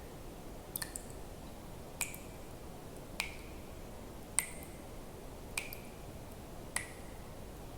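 Water drops dripping one at a time, a clear plink with a short ringing tone about every second and a bit, over a faint steady hiss.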